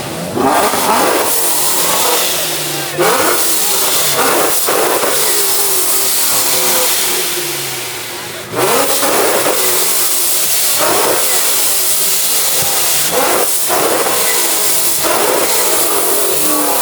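Car engine revving hard again and again, its pitch climbing and dropping with a fresh surge every few seconds, over a continuous hiss and crowd voices.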